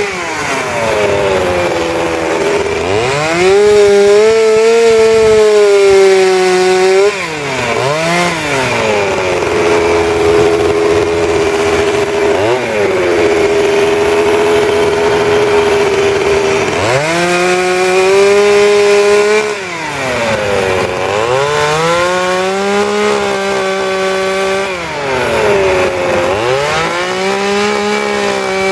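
Two-stroke chainsaw carving wood: the engine is held at high revs under load. About six times it drops briefly toward idle and revs back up between cuts.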